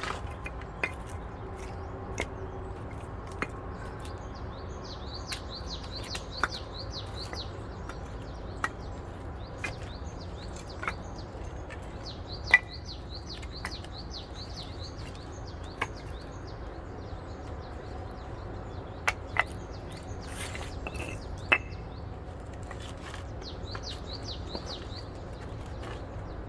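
Hydraulic log splitter at work: a steady low hum under scattered sharp cracks and knocks of wood, one much louder than the rest about halfway through. A bird trills in the background several times.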